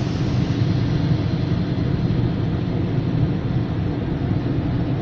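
Steady road and engine noise inside a moving car's cabin, a constant low rumble with tyre hiss.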